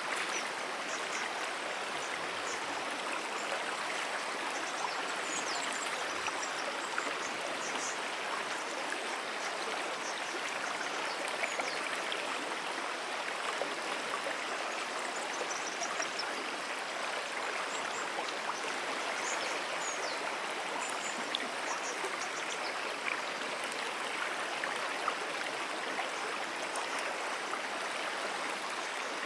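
Moonan Brook, a small freshwater stream, flowing with a steady rushing, babbling sound, with faint high chirps scattered over it.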